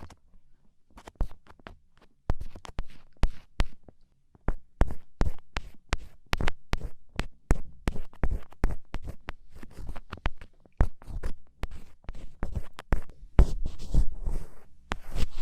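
Black ear pick (mimikaki) scraping and scratching close against a microphone ear, as in ear-cleaning ASMR: crisp irregular scratchy clicks, sparse at first, then in quick runs of several a second with short pauses.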